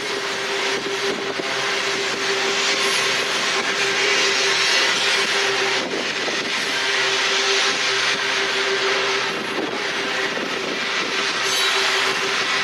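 Open-top steel coal hopper cars of a freight train rolling steadily past: a continuous rumble of steel wheels on rail with a steady humming tone running through it. A sharp clack from the wheels about six seconds in.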